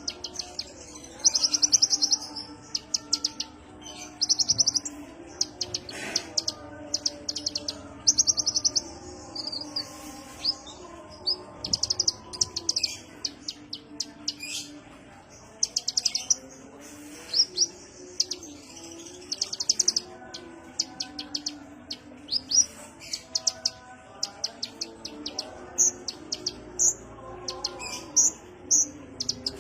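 Kolibri ninja sunbird singing: high, rapid chirping trills in repeated bursts of about a second, with short single chirps between them.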